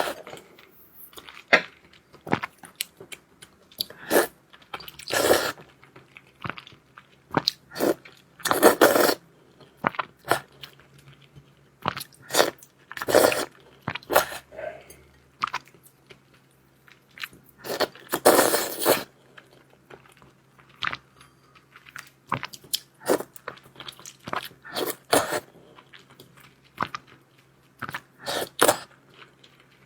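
Close-miked eating: chewing, crunching and wet mouth clicks, with a few longer, louder noisy bursts several seconds apart.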